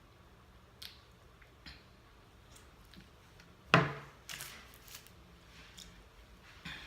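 Close-up eating sounds: scattered small clicks and crunches, with one sharp, loud bite or mouth smack about four seconds in followed by a short run of crunchy chewing.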